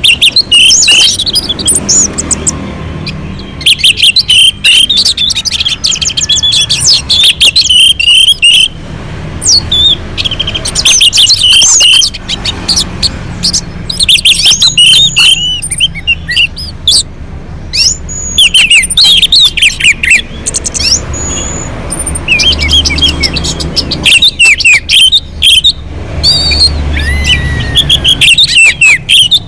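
Orange-headed thrush singing a loud, varied song of quick, high whistled phrases, with short pauses every few seconds, over a low steady hum.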